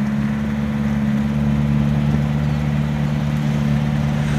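Mitsubishi T120SS truck engine running at a steady pitch under way, an even drone.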